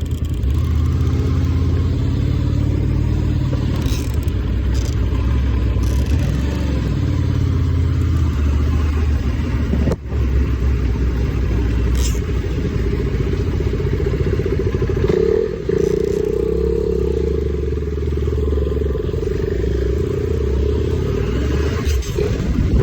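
250 cc motocross bike engine running and revving, its pitch rising and falling several times, with a brief drop about ten seconds in.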